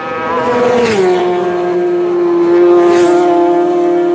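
Racing motorcycle engine at high revs passing at speed. Its note drops sharply in pitch about a second in as it goes by, then holds steady as it pulls away.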